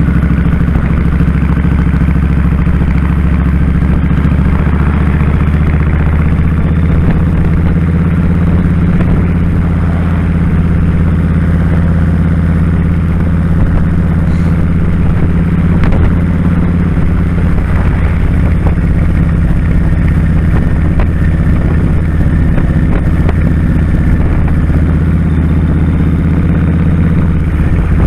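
2001 Kawasaki Drifter 1500's V-twin engine running at a steady speed while under way, with wind and road noise over the microphone.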